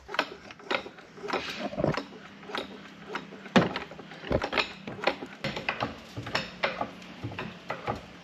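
Floor jack being pumped to lift a 2019 Ford Explorer: a run of irregular metallic clicks and clanks, several a second, with a few louder knocks, over a faint steady hum.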